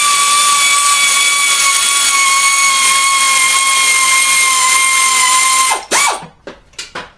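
A newly bought handheld power tool running free with a noisy, steady high-pitched motor whine that sags slightly in pitch. It stops just before the end, gives one short burst, and then comes a few light clicks and knocks.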